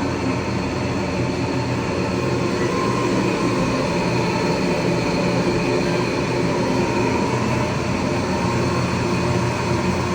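Drying fans running steadily: a loud, even whir with a constant hum.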